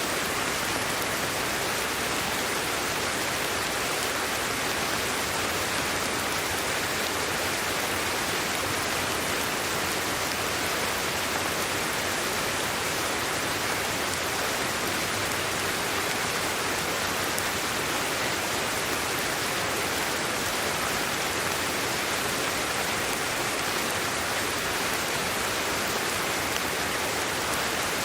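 Steady sleep-aid white noise: an even hiss, brightest in the upper range and thin in the bass, with no changes or separate events.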